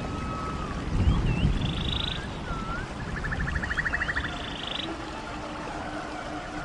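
Stream water running, with birds singing over it: short swooping whistled notes, each followed by a rapid trill, three phrases in all. The water is loudest about a second in.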